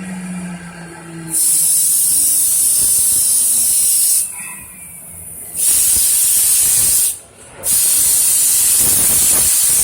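Three loud bursts of hissing air, each a few seconds long, switching on and off abruptly.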